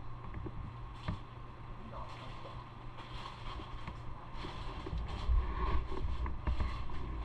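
Motorcycle running: a steady low engine rumble, with irregular gusts of wind noise on the microphone.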